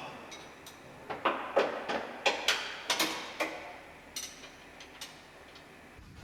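A run of sharp, irregular clicks and clinks from hand tools being worked on the bolts holding the Beetle's engine to its gearbox, bunched in the middle with a few fainter ones near the end.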